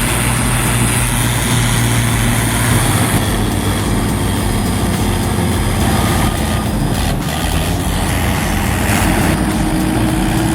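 Heavy diesel machinery engine running steadily.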